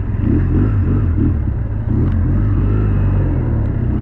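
BMW R1200 GS flat-twin engine running, a steady low rumble.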